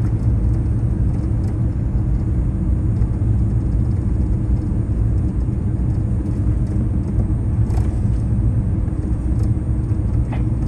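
Steady low rumble inside the cabin of a Boeing 787-9 rolling on the ground after landing: engine and airflow noise with the wheels on the pavement. A couple of light clicks or rattles stand out near the end.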